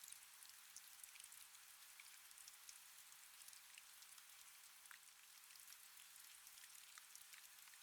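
Faint, steady rain: a soft hiss with many scattered raindrop ticks.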